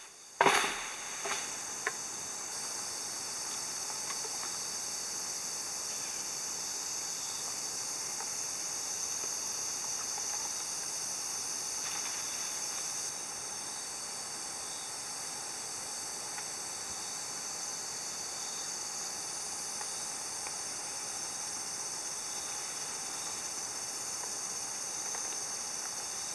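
Steady high-pitched insect chorus, a continuous shrill trill that holds at one level throughout.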